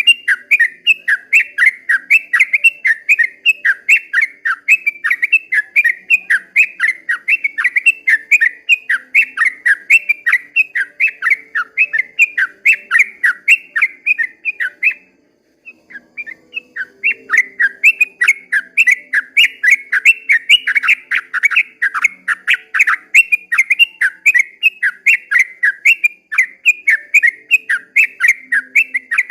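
Yellow-vented bulbul (trucukan) singing a long rapid-fire run of loud chattering notes, about four a second, broken once by a short pause midway.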